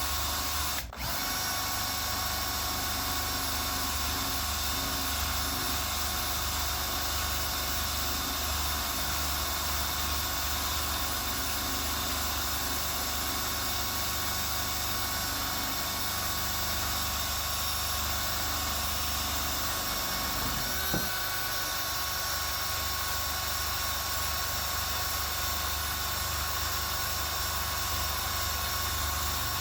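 Electric drill running steadily with a soft wire wheel, brushing rust off an old iron ice claw; the motor's whine holds steady, with a brief break about a second in.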